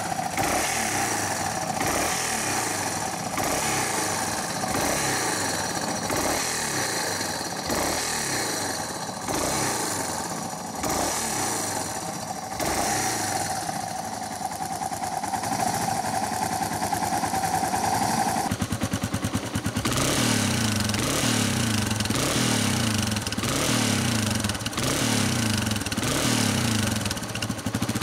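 Yamaha Serow 225's air-cooled single-cylinder four-stroke engine running on a SUDCO PWK28 carburettor, the throttle blipped again and again so the revs rise and fall back about once a second, showing how the carburettor setting responds. About two-thirds through the sound turns louder and deeper, heard from the muffler side.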